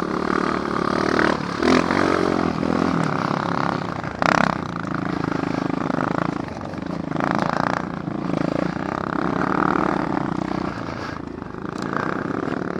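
Apollo dirt bike engine running on the trail, its speed rising and falling with the throttle. There are short noisy bursts about four and seven seconds in.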